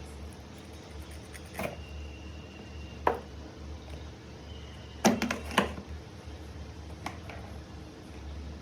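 Scattered sharp clicks and knocks of small hard objects being handled on a workbench, about five in all with the loudest cluster about five seconds in, over a steady low hum.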